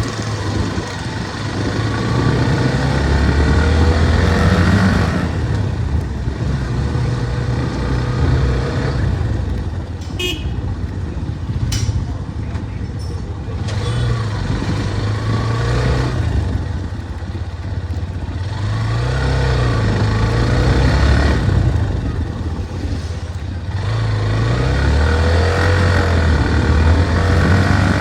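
Motorcycle engine running under way, its low note rising and falling with the throttle, over steady road noise.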